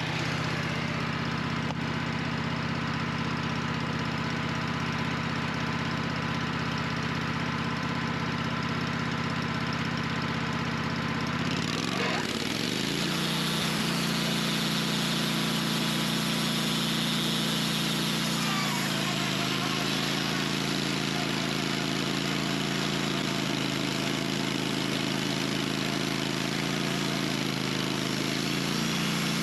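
An engine running steadily at idle, then revving up about 12 seconds in and holding at a higher speed, with a small change in pitch near 19 seconds.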